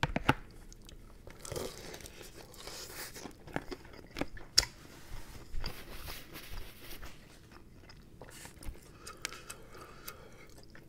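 Close-miked chewing and crunching of crispy fried chicken, a run of sharp crackles with the loudest crunch about four and a half seconds in.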